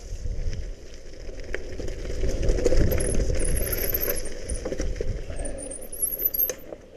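Mountain bike rattling and clinking over rough ground while being ridden, with wind rushing over the microphone.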